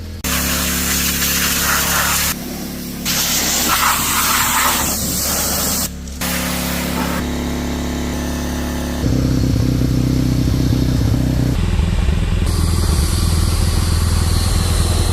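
Pressure washer spraying with a hiss over a small engine running steadily, broken by several abrupt cuts. About nine seconds in the engine gets louder and the spray drops away.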